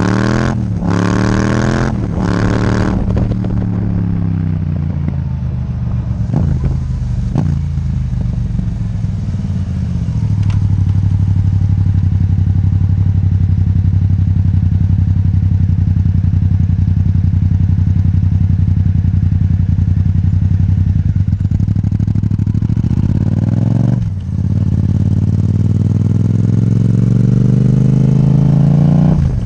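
Yamaha MT-07's parallel-twin engine through an Akrapovic titanium exhaust. It revs up and down quickly a few times in the first three seconds, then runs steadily. Around 24 s it briefly dips, then its pitch climbs again.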